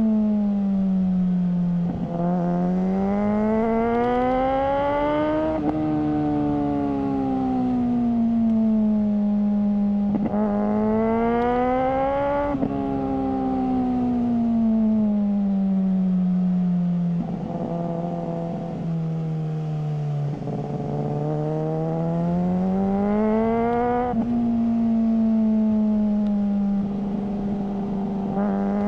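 Suzuki GSR600's inline-four engine breathing through a GPR Ghost aftermarket exhaust, under way with the revs climbing and falling over and over. Several times the note climbs steadily and then drops sharply, as at a gear change.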